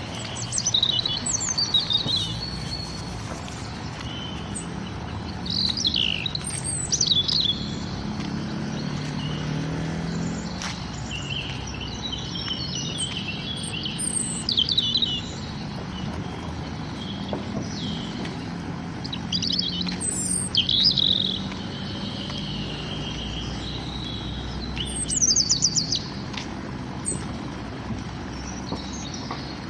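Songbirds singing: bursts of high chirps and quick trills every few seconds, over a steady low rumble of background noise.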